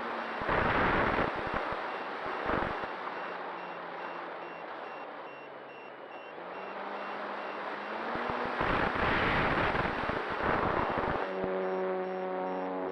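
A vehicle engine running, with a steady beeping repeating about twice a second like a reversing alarm, and bursts of wind-like noise about a second in and again late on.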